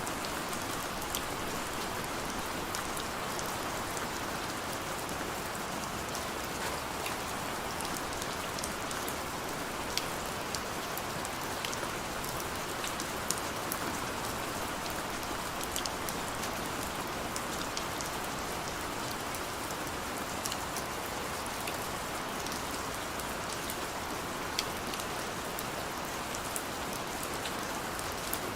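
Heavy rain falling steadily, a dense even hiss with many sharp drops pattering on a surface throughout.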